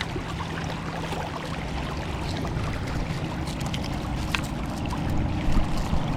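Shallow river water running steadily, with a low rumble and a few faint clicks over it.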